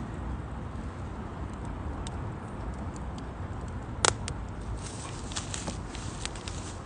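Firewood burning in a UNIFLAME Nature Stove Large, a compact steel wood stove: a steady low rumble with scattered small crackles and one sharp pop about four seconds in.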